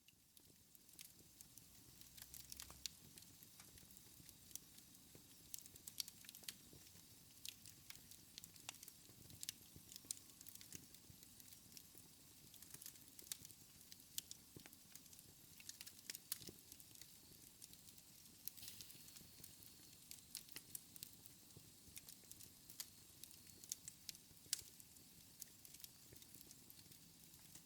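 Wood fire in a fireplace crackling faintly: a soft steady hiss with frequent irregular sharp pops and snaps.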